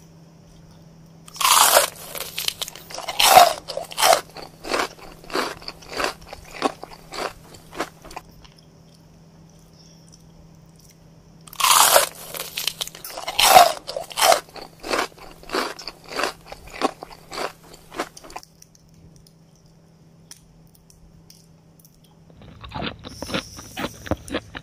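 Close-up eating sounds: twice a long strand of mushroom is slurped in with a loud suck, each time followed by about six seconds of wet, crunchy chewing at roughly two chews a second. A shorter run of quicker chewing starts near the end.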